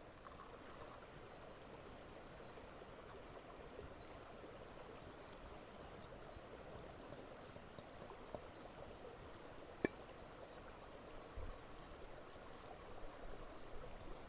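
Faint outdoor ambience with a short, high chirp repeating about once a second, now and then running into a brief trill. A single sharp click comes about ten seconds in.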